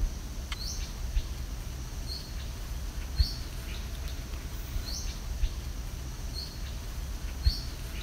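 A bird repeating a short, high chirping call about six times, over a steady low rumble of wind on the microphone. Two brief low thumps stand out, about three seconds in and near the end.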